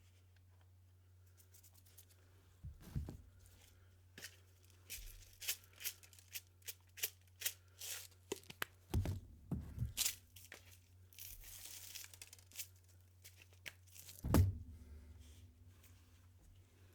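Metal spatulas scraping and tapping on the frozen steel plate of a rolled ice cream station, in a run of short strokes about one or two a second. A few heavier knocks fall among them, the loudest about fourteen seconds in. A low steady hum runs underneath.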